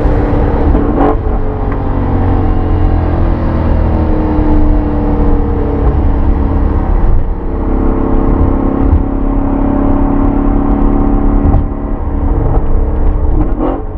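Mercedes-AMG E63 S wagon's twin-turbo 5.5-litre M157 V8, fitted with Weistec turbochargers, downpipes and exhaust, accelerating hard. The engine note climbs in long pulls and falls back about halfway through and again near the end, as at gear changes.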